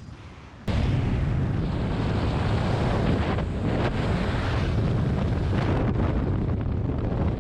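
Heavy wind rushing over the camera's microphone, starting abruptly about a second in and holding steady: the airflow of a skydive.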